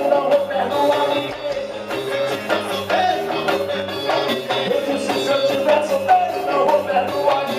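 Bahian swingueira band music: a full band playing with percussion on a steady dance beat and sustained melodic lines, possibly with some singing.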